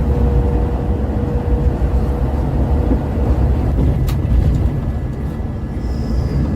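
Scania K410 multi-axle coach on the move: a steady, heavy low rumble of engine and road noise, with a brief click about four seconds in.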